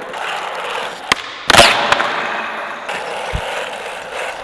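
Skateboard running on bare bearings with no wheels, rolling and scraping over the ground with a harsh continuous hiss. A sharp clack comes about a second in and a loud board impact about a second and a half in, followed by a dull thud later.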